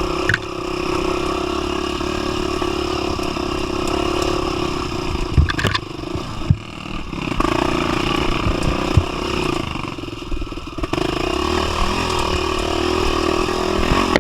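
Single-cylinder 250 cc trail motorcycle engine running under steady throttle on a dirt trail, easing off briefly twice, with a few sharp knocks from the bike over rough ground.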